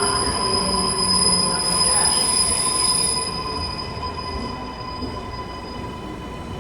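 MARTA rapid-transit railcar's wheels squealing against the rails over a steady running rumble. The squeal is a set of steady high tones, loudest for the first three seconds and then easing off.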